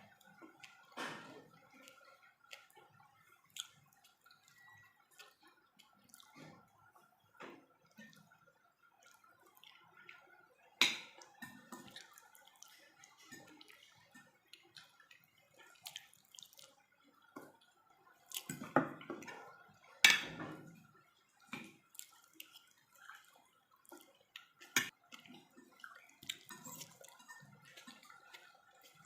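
Close-up eating sounds: wet chewing and mouth smacking while eating pork, with scattered small clicks and a few louder knocks or crunches, the loudest about two-thirds of the way in. A faint steady hum runs underneath.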